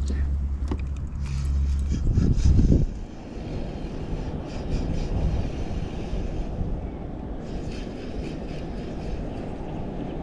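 A steady low hum that surges and cuts off about three seconds in, then wind rumbling on the microphone with water lapping around the kayak.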